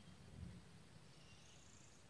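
Near silence, with faint birdsong: a thin high note in the second half, and a soft low thump about half a second in.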